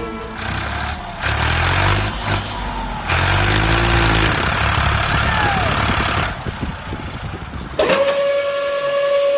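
A heavy engine's deep, noisy rumble, in surges, with a few faint gliding tones over it. About eight seconds in, it gives way to a steady, long whistle-like tone.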